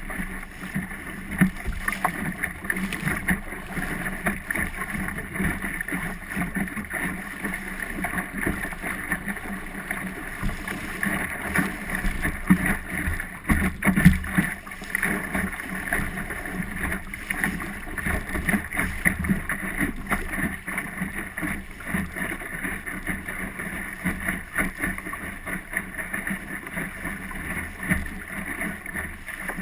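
Water splashing and slapping against the hull of a small Optimist sailing dinghy under way, a steady rush with frequent small irregular knocks, with wind on the microphone.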